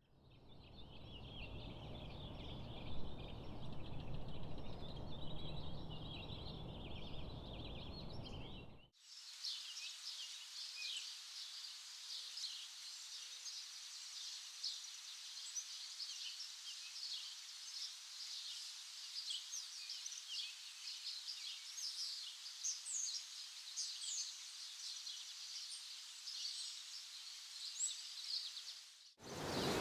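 Many small songbirds chirping and singing in quick, overlapping high calls. For about the first nine seconds a low rushing noise lies under them; after an abrupt cut only the birdsong remains.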